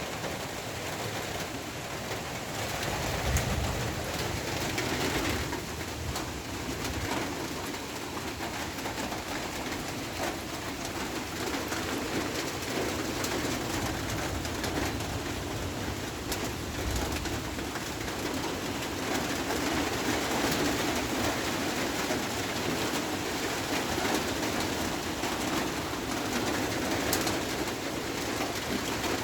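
Steady rain falling, an even hiss of drops, with low, repeated bird calls carrying through it.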